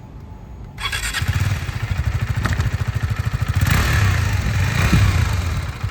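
2024 KTM RC390's single-cylinder engine starting up about a second in and then running with a quick, even pulsing beat, louder for a stretch from about four seconds in.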